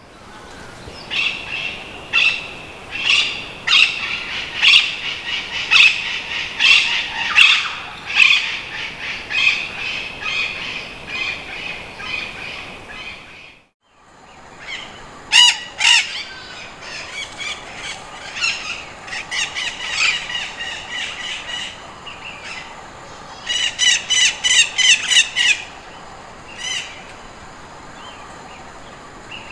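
Slender-billed parakeet (slender-billed conure) giving short, repeated calls in loose series. A quick run of calls comes about two-thirds through. The sound cuts out briefly about halfway, where one recording gives way to another.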